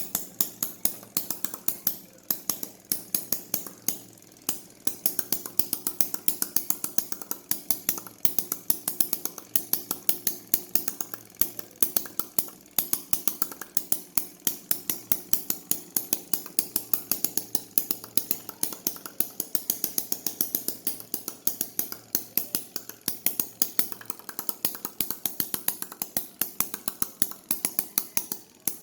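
Small homemade model internal combustion engine running, with a steady, slightly uneven train of sharp metallic clicks, several a second.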